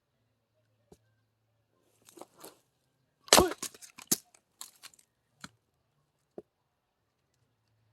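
Axe blow splitting a firewood log about three seconds in, with a short ring, then cracking and knocking of the split wood. Two lighter knocks follow.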